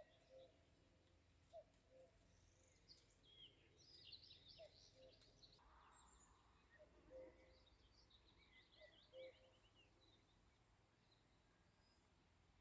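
Faint evening birdsong: several birds singing in short high phrases, with a low two-note call, the first note higher than the second, repeated every one to two seconds.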